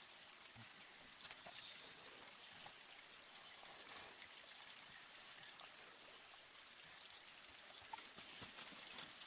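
Near silence: faint outdoor ambience, a soft steady hiss with a few faint clicks.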